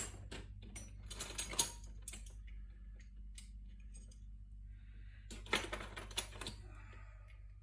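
Small metal tools and parts clinking and rattling as they are handled, in clusters of quick clicks: one at the start, another about a second in, and a third past halfway.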